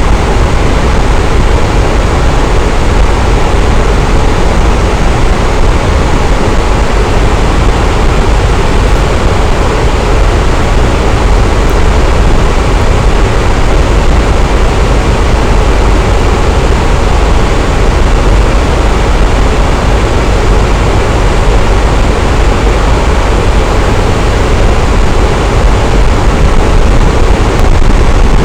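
Electric fan running steadily, a constant airy rush with a deep low hum and no changes.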